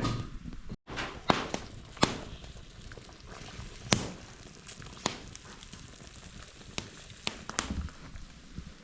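Open wood fire crackling, with sharp irregular pops and snaps over a low steady hiss; the loudest pop comes about four seconds in.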